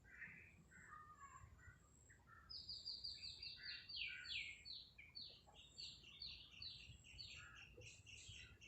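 Faint bird calls: a few soft chirps, then from about two and a half seconds in a rapid run of short, high, slightly falling notes, several a second.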